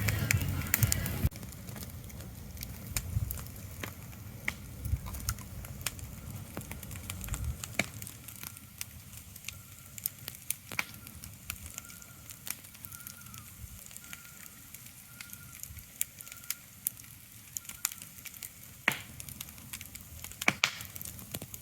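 Ambient recording of scattered, irregular sharp crackles and clicks over a low rumble. The rumble drops away about seven seconds in, and a faint thin tone comes and goes in the middle.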